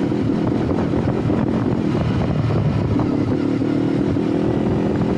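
Hunter Maverick 500cc motorcycle engine running at an even level. The bike has a fuel-injection fault that cuts the injection under load, cause not yet known.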